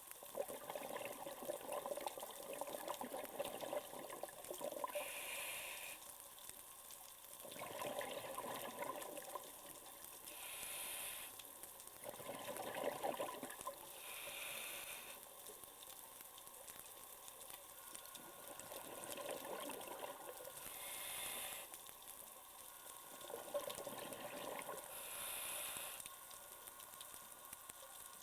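Scuba diver breathing through a regulator underwater: a short hissing inhale every five or six seconds, each followed by a longer rush of exhaled bubbles.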